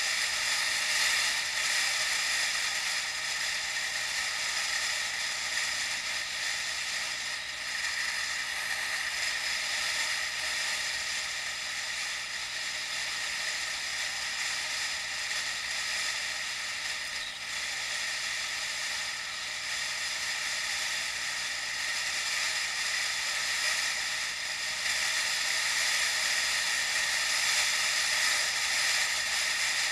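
Steady hiss of wind and road noise from a moving bicycle, heard through an action camera's microphone.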